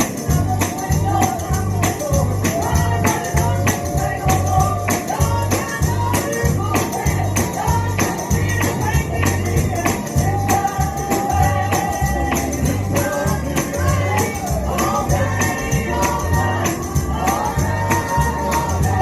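Live gospel music: a tambourine shaken on a steady beat over a pulsing bass, with a singing voice carrying the melody.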